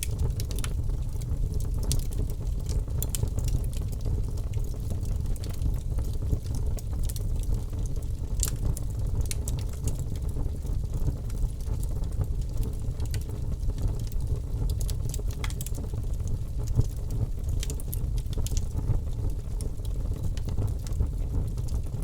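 Wood fire burning in a fireplace: a steady low noise with scattered sharp crackles and pops.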